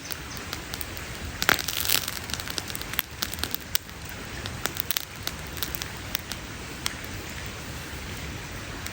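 Wood campfire crackling, with sharp pops scattered over a steady hiss; a quick run of crackles comes about a second and a half in, and the pops thin out toward the end.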